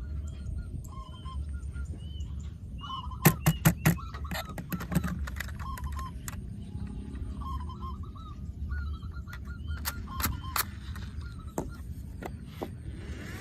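Bird calls, many short honk-like calls repeating, over a low steady hum, with a quick run of sharp clicks about three seconds in and a few more about ten seconds in.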